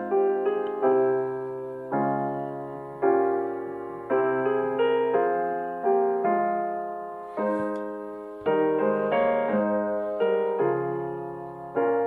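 Slow, soft piano music: sustained chords struck about once a second, each fading away before the next.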